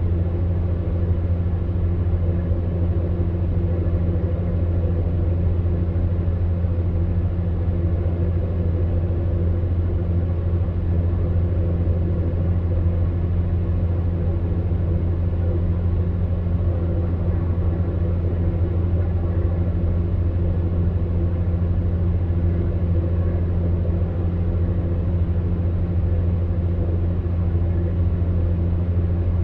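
Electric fan heater running: a steady low hum under an even rush of air from its fan.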